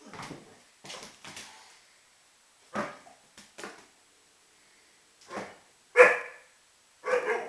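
Vizsla barking: about nine short barks at uneven intervals, the loudest about six seconds in.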